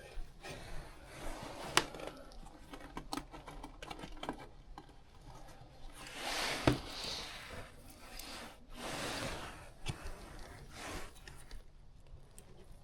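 Handling noises from work on a gas furnace's wiring and fittings: scattered clicks, taps and rustles, with a sharp knock about six and a half seconds in.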